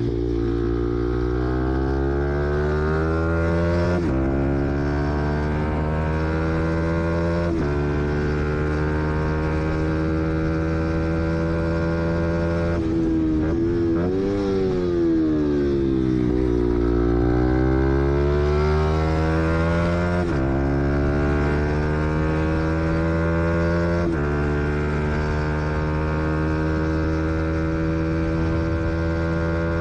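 Fantic XMF 125 motard's four-stroke single-cylinder engine being ridden hard, its note climbing through the revs with sudden breaks at several gear changes. About halfway through the revs fall and rise sharply, then it pulls up through the gears again.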